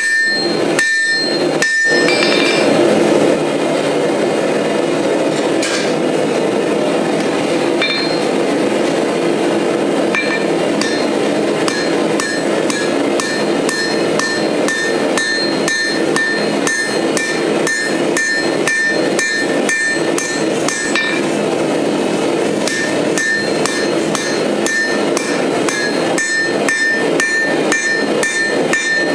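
Hammer blows forging steel on an anvil, roughly two strikes a second, each blow followed by a clear metallic ring from the anvil. A steady rushing noise runs underneath the blows.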